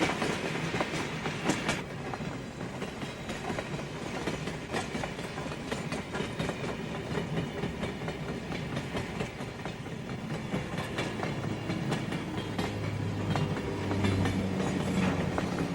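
Railroad cars of a freight train rolling past, their wheels clicking over the rail joints. About twelve seconds in a low steady drone, like a diesel engine, comes in and grows a little louder.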